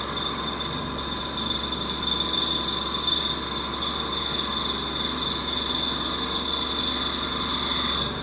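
Haas Mini Mill 2 CNC spindle driving a single-flute Iscar high-feed end mill through 6Al-4V titanium, a steady high whine over the cutting noise.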